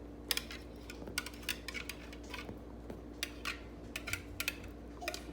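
Light, irregular clinks and taps of a kitchen utensil against dishware as sauce is poured and spread over a casserole layer.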